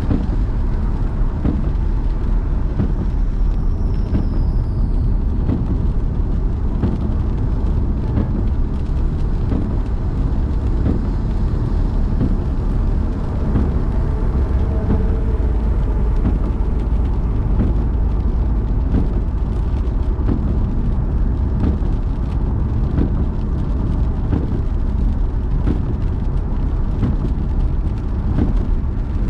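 Car driving, a steady low rumble of road and engine noise, with a faint high falling squeal about four seconds in.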